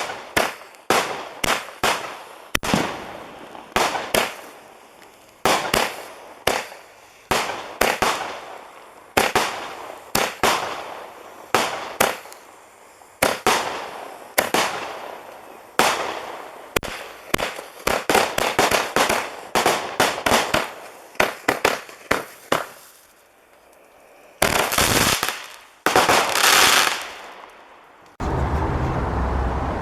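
CT Pyro 'Whole Shabang' 75-shot firework cake firing its fan of shots, each a sharp bang with a short crackling tail, about two a second. After a brief lull near the end, a couple of seconds of dense crackling and hissing close out the cake.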